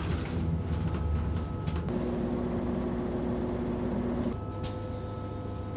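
Passenger train running, heard from inside the carriage: a steady low rumble with a faint steady hum. The hum changes pitch suddenly twice, about two seconds in and a little after four seconds.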